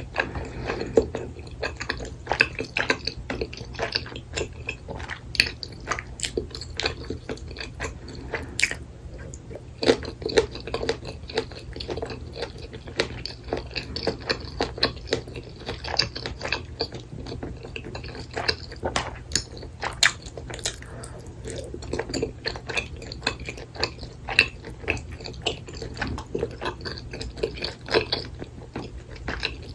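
Close-miked mukbang eating sounds: chewing and biting of spicy tteokbokki rice cakes, udon noodles and chewy glass noodles, with frequent wet mouth clicks and smacks. A steady low hum sits underneath.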